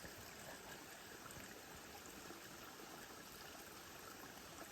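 Waterfall: a faint, steady rush of falling water.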